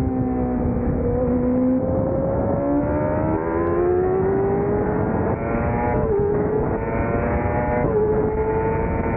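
600 cc race motorcycle engine under hard acceleration. Its note climbs steadily and drops sharply at each gear change, most clearly about six and eight seconds in, over a heavy rush of wind noise.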